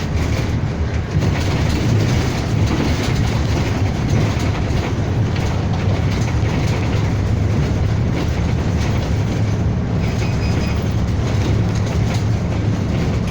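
City bus engine and road noise heard inside the passenger cabin while driving: a steady low rumble with a hiss of tyres and rattle.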